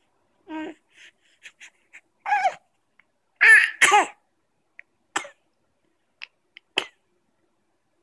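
A little child making short, high-pitched vocal noises: a string of squeals and cough-like bursts, the loudest pair about three and a half seconds in, with small clicks and smacking sounds between.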